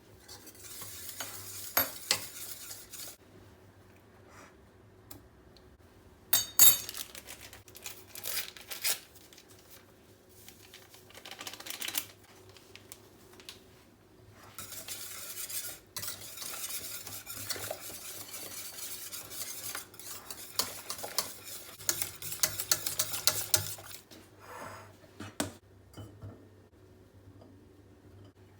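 A spoon stirring and scraping in a cooking vessel in bursts, with a few sharp clinks of the utensil against its side.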